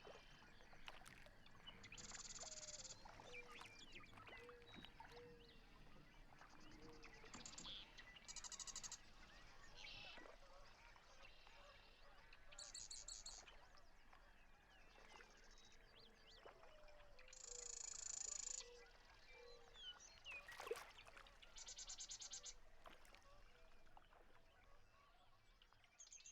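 Faint birds at the waterside: short, buzzy high trills about a second long recur every few seconds, and two runs of short, low calls come about two seconds in and again past the middle.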